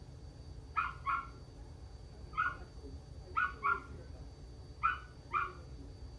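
Short animal calls, seven in all and mostly in quick pairs, over a steady low rumble.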